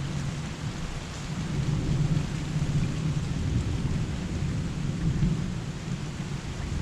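Heavy rain pouring, an even hiss with a steady low rumble underneath.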